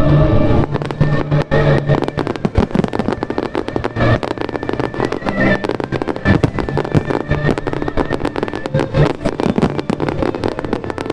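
Fireworks show: a dense, continuous barrage of crackling and popping bursts, many each second, with music playing underneath.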